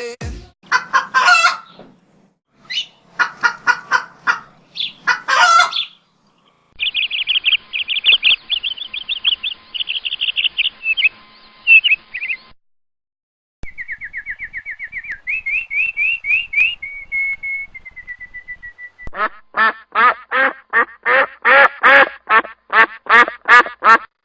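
Birds calling, a string of different recordings one after another with short breaks: first scattered calls, then several seconds of dense high chirping, then a quick run of trilled notes. Near the end comes a series of about a dozen loud, evenly spaced calls.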